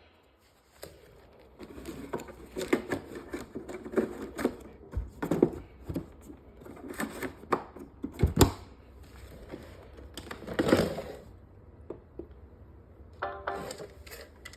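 Roomba robot vacuum clattering and knocking irregularly over a low hum, with a sharp knock about eight seconds in and a louder clatter a couple of seconds later.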